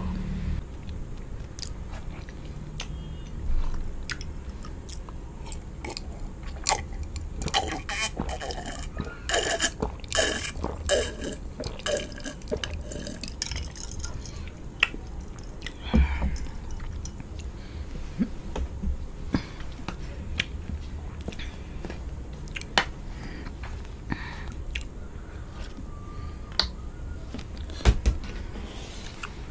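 Close-miked eating sounds: wet chewing and mouth clicks. A dense run of gulps comes in the middle as a drink is swallowed from a glass. Two sharp thuds come about halfway and near the end.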